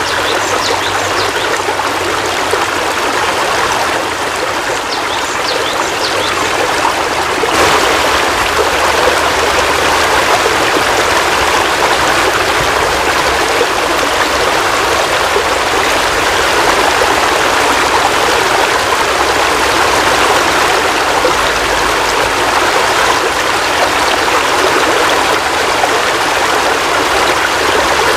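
Heavy rain falling steadily in a dense, even hiss, growing a little louder about seven seconds in.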